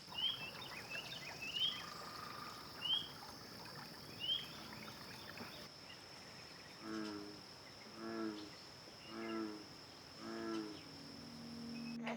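Forest wildlife chorus: a steady high insect drone underneath, a bird's short rising chirp repeated about every second and a half in the first half, then four evenly spaced lower, throaty calls from another animal. A low steady hum comes in near the end.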